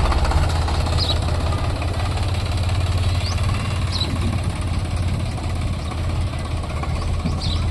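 Sonalika DI 42 RX tractor's diesel engine running steadily with a low, even hum while hauling a loaded trolley. A few faint high chirps are heard over it.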